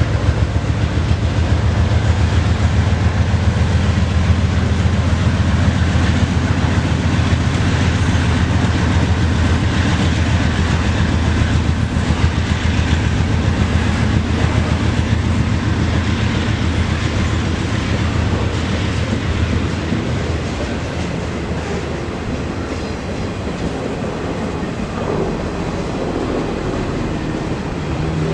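A freight train rolling past: a steady low diesel rumble and the noise of rail car wheels on the track, easing off somewhat in the last third.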